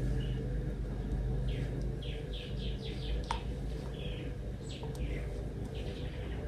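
A bird chirping: a quick run of short, falling chirps about two seconds in, then a few scattered calls.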